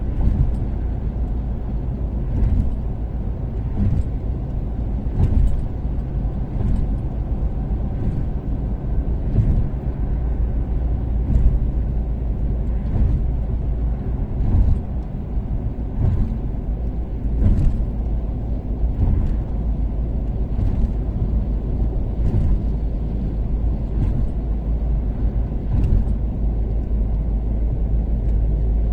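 Toyota Caldina ST246W with its turbocharged 3S-GTE four-cylinder cruising on an expressway: a steady low road and engine rumble. Over it come short knocks about every second and a half as the tyres cross road joints.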